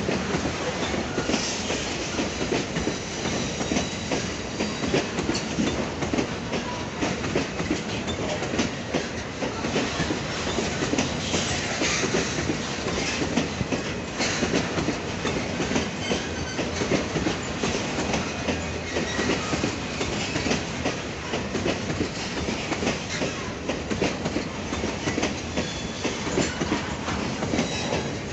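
Loaded HAT coal hopper cars of a long freight train rolling past, their steel wheels clicking over the rail joints in a continuous irregular clatter over a steady rumble.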